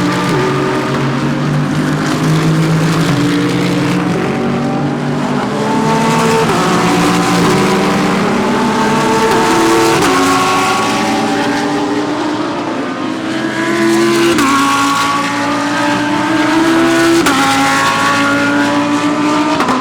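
GT3 race cars accelerating hard, their engines climbing in pitch and dropping sharply at each of several upshifts, one car's run following another.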